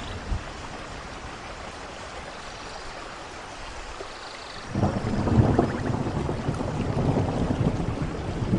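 Steady rain falling, then about halfway through a loud rumble of thunder breaks in suddenly and keeps rolling to the end.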